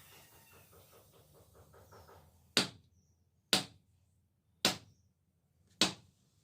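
Four sharp hammer blows on metal, about a second apart, each dying away quickly. They are preceded by a faint, quick, rhythmic sound at about five strokes a second.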